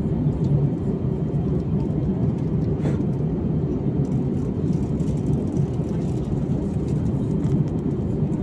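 Steady low rumble of cabin noise inside an Airbus A321neo, engine and airflow noise heard from a passenger seat.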